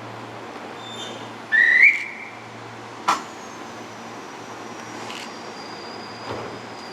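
A short, loud whistle blast about one and a half seconds in, rising slightly in pitch, followed by a sharp click about a second later. A faint high tone glides slowly downward near the end, over a steady low hum.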